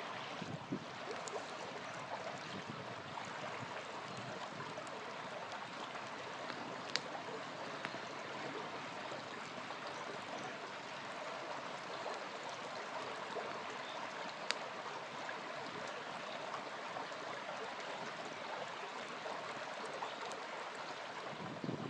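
A small river flowing and gurgling steadily, with a few sharp crackles from a wood campfire now and then.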